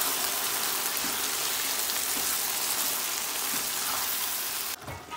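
Tomato sauce with sausage pieces sizzling steadily in a frying pan as a spatula stirs it. The sizzle drops away suddenly near the end.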